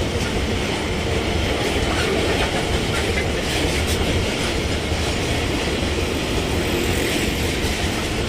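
Loaded iron-ore freight train rolling past: the steady running noise of heavy ore wagons' steel wheels on the rails, with no let-up.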